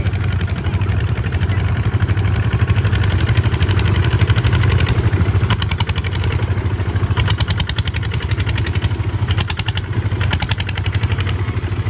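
Tractor engine running steadily as it is driven, with a low, even drone and stretches of rapid clatter about halfway through and again near the end.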